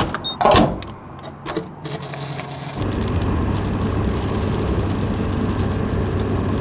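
Pickup truck carrying a camper, driving: a few clicks and knocks in the first second or two, then from about three seconds in a steady low engine drone and road noise.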